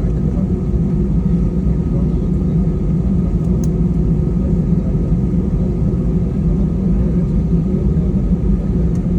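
Steady low rumble of an airliner's jet engines during takeoff.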